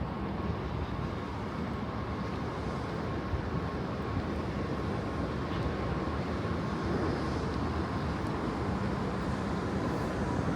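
City background noise: a steady rumble with a faint steady tone running through it, and no distinct events.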